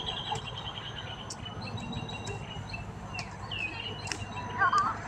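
Small birds chirping and trilling in short repeated phrases, over a faint steady high insect drone, with one brief louder wavering call near the end.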